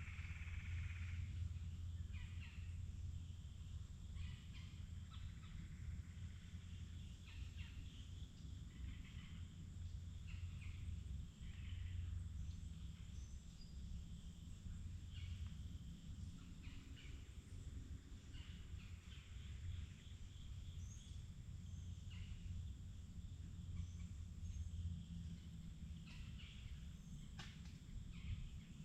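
Forest ambience: many short bird chirps and calls scattered throughout over a steady low rumble, with a longer held call in the first second or so.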